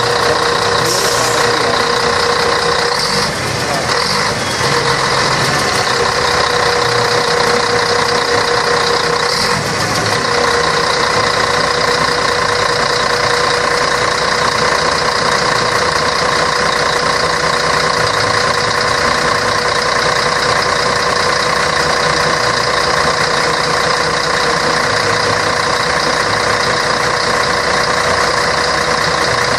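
Scania K113 bus's 11-litre straight-six diesel engine running steadily at an unchanging speed.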